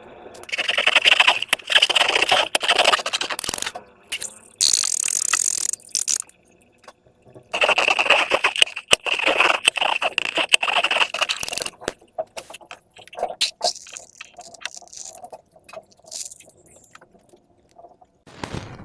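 Slime being squeezed and pulled by hand, making sticky crackling and scraping noises in two long spells, with a short hiss between them and quieter clicks and pops near the end.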